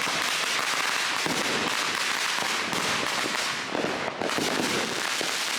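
Fireworks crackling: a dense, unbroken stream of small pops and crackles.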